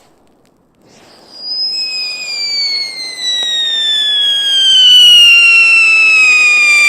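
A screaming whistle firework, the Funke Scream 2, letting out one long shrill whistle that falls steadily in pitch and grows louder, after a brief hiss as it ignites.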